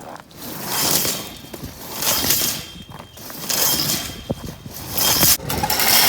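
Drain-cleaning machine running with its steel cable spinning and scraping inside the pipe, surging and easing about every second and a half and loudest near the end.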